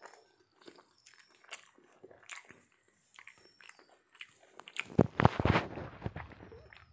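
Close-up chewing of a mouthful of rice and curry eaten by hand, with soft wet clicks and smacks, then a run of louder chewing about five seconds in.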